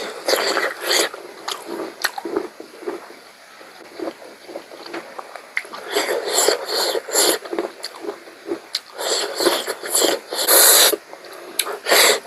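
Close-miked mukbang eating sounds from pork curry: wet chewing and mouth smacks, mixed with sharp, noisy breaths and sniffs. These come in a string of short bursts that grow busier in the second half.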